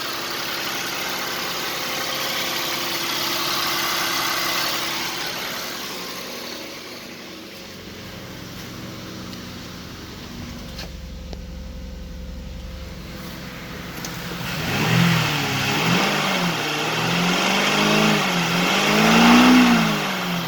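2010 Lincoln MKZ's 3.5-litre V6 engine idling steadily, then revved up and down several times in quick succession during the last third, the highest rev near the end.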